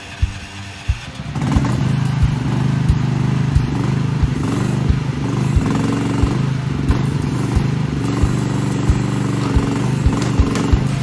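Small crawler excavator's engine running steadily, getting louder about a second and a half in and then holding. A regular low thud sounds about every two-thirds of a second.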